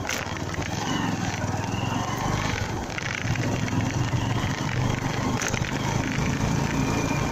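Honda MegaPro Primus motorcycle's single-cylinder engine running steadily while riding, under steady wind and road noise.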